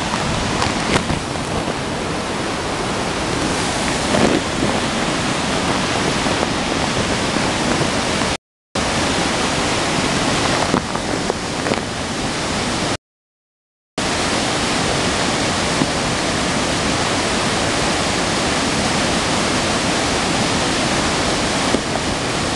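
Heavy rain falling in a dense, steady hiss. The sound cuts out to silence twice, briefly a little past the middle and for about a second soon after.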